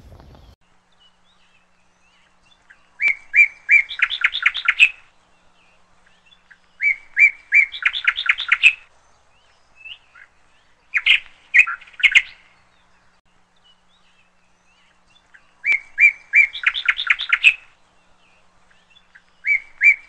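A songbird singing a short phrase, repeated about every four seconds: each phrase is a few separate notes followed by a fast trill.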